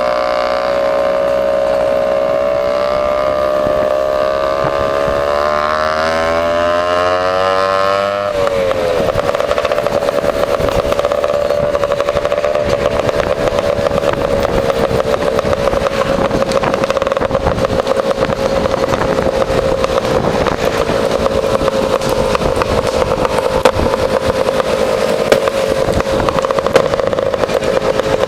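Two-stroke Lambretta scooter engine running through an AF reverse cone exhaust while riding along. The pitch climbs for a few seconds, changes sharply about eight seconds in, then holds fairly steady at cruising speed.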